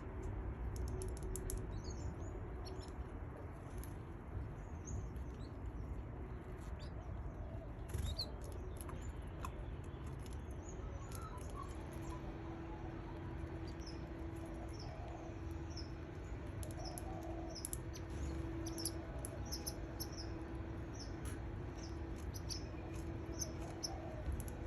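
Canary chicks in the nest chirping with many short, high peeps, and brief wing flutters as they stretch and flap their wings. A steady low hum comes in about halfway through.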